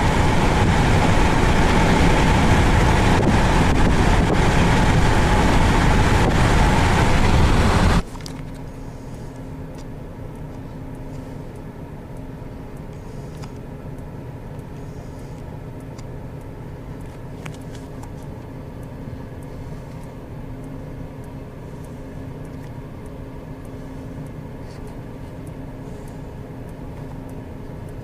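A loud, steady rush of storm wind noise on the microphone for about eight seconds, then an abrupt cut to a much quieter steady hum, like a vehicle idling.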